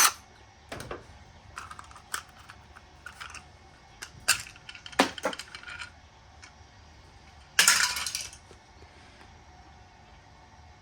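Small metal furnace-burner parts clinking and clattering as they are handled and dropped, a scatter of sharp clicks, with one brief harsh rasp about seven and a half seconds in.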